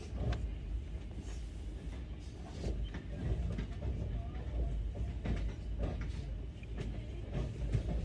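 Passenger train running on the rails: a steady low rumble with irregular clicks and knocks from the wheels and couplings.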